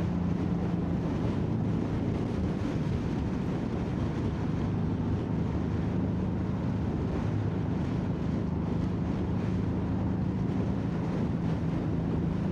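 Motorcycle engine running at a steady cruising speed, its note holding level, with wind rushing over the microphone.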